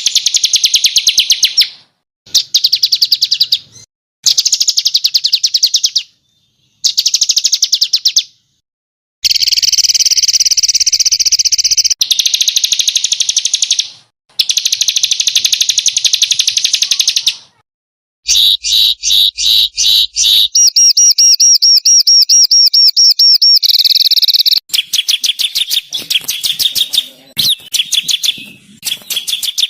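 Small songbirds singing harsh, rapid trills of fast repeated high notes, the 'tembakan kasar' (rough shots) of a bird-training masteran track. The phrases come in loud bursts of one to three seconds that start and stop abruptly with short silences between, running into a longer unbroken stretch about two-thirds of the way in and more varied chattering near the end.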